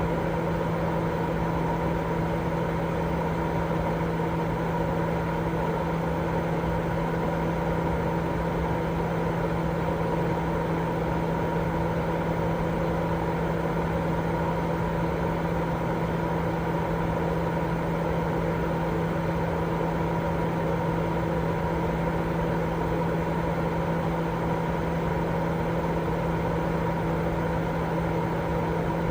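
Continuous sleep-aid noise: an unchanging rushing hiss, heavier in the low and middle range than in the highs, with a constant low machine-like hum running through it.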